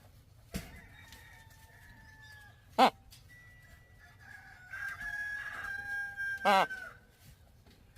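Macaw squawking: two short, harsh, loud calls about four seconds apart, with thinner steady whistled tones in between.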